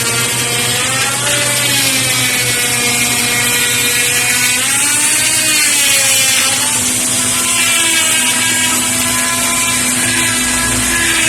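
Electric power tool running continuously under changing load, its whine sagging and recovering in pitch over a few seconds at a time, with a steady high hiss.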